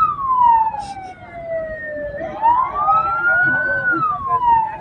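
Hearse siren wailing in a slow rise and fall. The pitch sinks through the first two seconds, climbs back up, then starts sinking again near the end.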